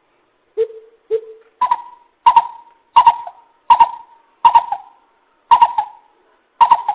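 Greater coucal calling: a series of deep hooting notes, the first two lower, then a steady run of seven higher hoots at about one every 0.7 seconds. It is a lure call used to draw in wild coucals.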